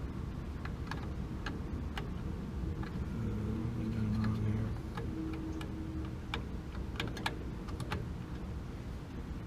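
Scattered light clicks and taps over a steady low hum, with a brief louder hum about three seconds in.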